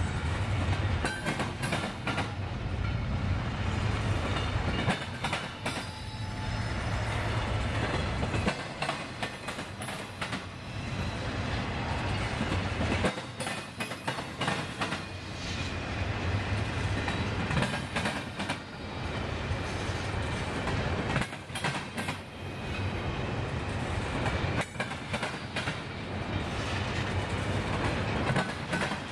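Intermodal freight train's double-stack well cars rolling past, steel wheels clacking over the rail joints over a steady rumble that swells and dips every few seconds as the cars go by.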